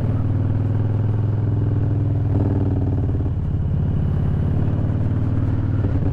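Harley-Davidson V-twin running under way at steady cruising speed, with a deep exhaust note that shifts slightly in pitch a couple of times.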